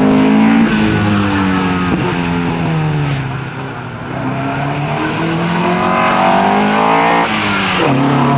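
Car engine revved hard through a slalom run, its pitch climbing and dropping again with each shift and lift. It fades briefly about halfway as the car runs to the far side of the course, then grows loud again as the car comes close past.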